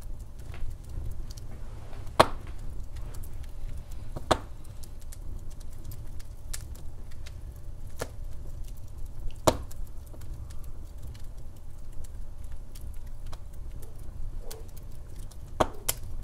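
Wood fire crackling in a fireplace: scattered sharp pops and snaps of the burning log over a steady low rumble of the flames, with the loudest pops about two, four and nine seconds in and twice near the end.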